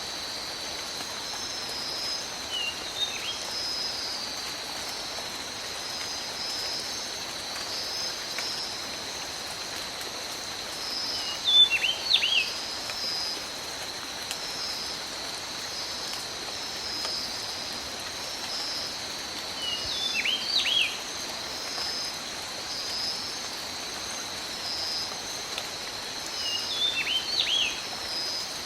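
Steady rain falling in a tropical forest, with a constant high-pitched hum and a pulsing high trill above it. A bird calls in short whistled, gliding phrases four times, every seven to eight seconds, loudest about twelve seconds in.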